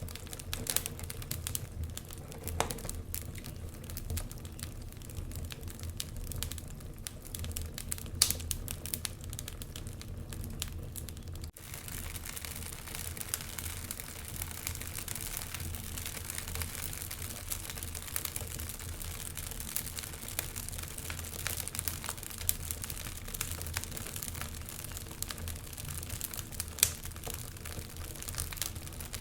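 Wood fire crackling in a fireplace: many small, irregular pops and snaps over a low steady rumble. The background hiss changes abruptly about twelve seconds in.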